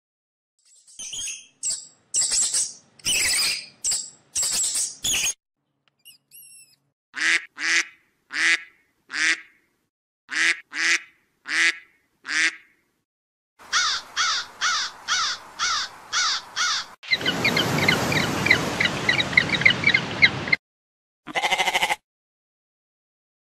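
A string of short animal calls separated by silences, among them a duck quacking about ten times at an even pace in the middle. Near the end comes a fast run of calls, then a few seconds of noise thick with rapid chirping.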